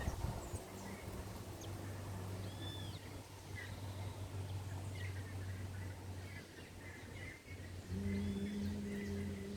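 Small birds chirping at a feeding spot, with short high calls every second or two. A steady low hum runs underneath and grows louder near the end.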